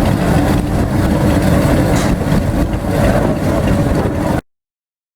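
A car engine idling with a steady low rumble, cutting off abruptly about four and a half seconds in.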